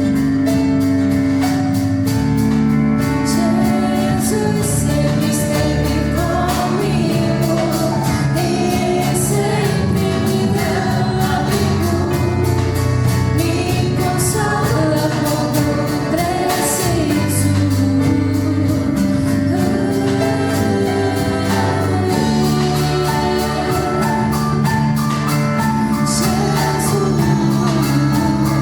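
Live band playing a song, sung by a lead singer with backing singers over a steady drum beat.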